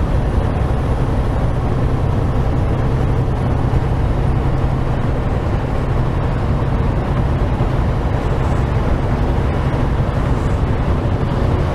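Semi-truck's diesel engine running and road noise inside the cab while driving: a steady low drone.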